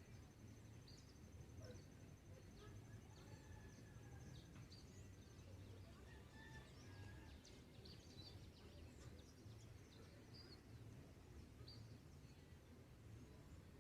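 Faint dawn bird chorus: scattered short, high chirps and a few thin whistled notes over a low rumbling background, with a rapid, evenly pulsed high trill that stops about five seconds in.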